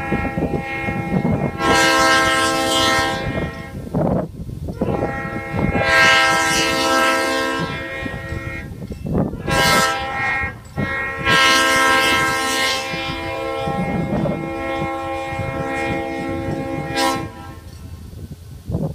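Diesel locomotive air horn, a multi-note chord, sounding three long blasts with short breaks between them, over the rumble of the locomotive and its train.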